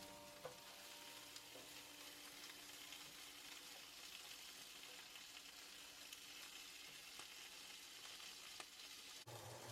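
Faint sizzling and crackling of food frying in a skillet.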